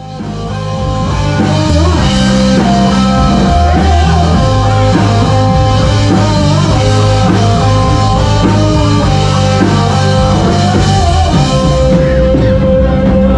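Rock music with guitar and drums, swelling up out of silence within the first second or two and then playing at a steady loud level.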